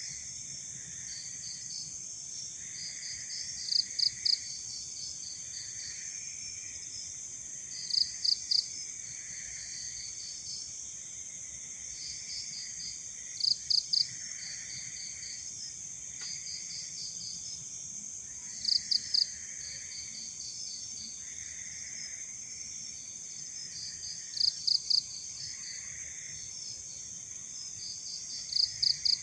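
Night insects chirping: a steady high trill under repeated trains of quick chirps, with a louder burst of three sharp chirps about every five seconds.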